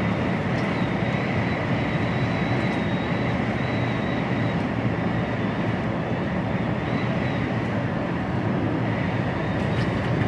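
Steady engine and road noise inside the cab of an HGV lorry driving at speed, with a faint, thin, wavering high whine over it.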